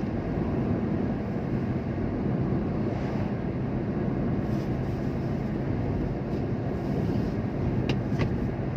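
Steady low rumble of a running motor vehicle, with two brief clicks near the end.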